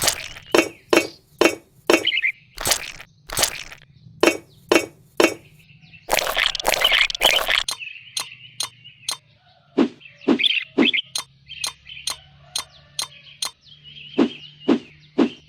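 Repeated sharp clicks and taps, about two a second, from small bricks and hand tools being handled and set in place, with a longer scraping rush about six seconds in.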